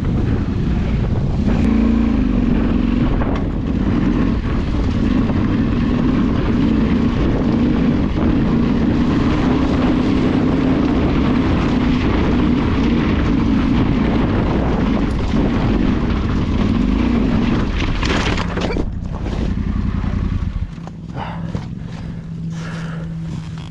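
Off-road motorcycle engine running under way, its pitch rising and falling, with wind on the microphone. About 20 seconds in it drops back to a steady idle, with a few clicks and knocks.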